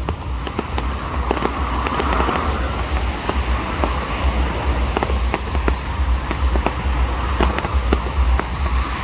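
Fireworks display: a dense, continuous run of sharp cracks and bangs over a steady low rumble.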